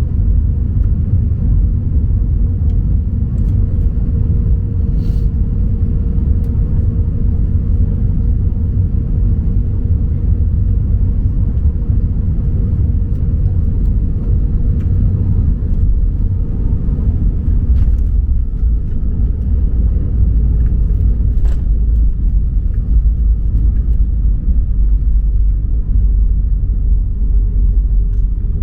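Airbus A319 cabin noise: a steady, loud low rumble of the engines and airframe heard from inside the cabin. A steady hum runs through it and fades about two-thirds of the way through, and there are a few faint clicks.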